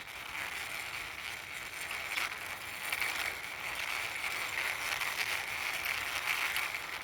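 Toy truck's small wheels rolling along as it is pushed by hand: a steady rattling whir with faint clicks.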